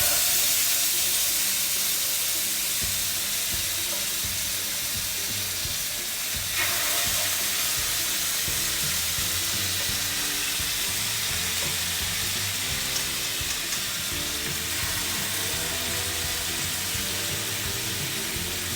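Marinated chicken pieces frying in a hot pan, with a steady sizzle that swells slightly about six seconds in.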